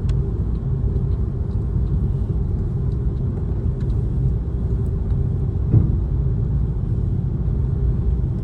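Airliner cabin noise after take-off: a steady low rumble of jet engines and airflow with a faint steady hum. A brief knock comes about six seconds in.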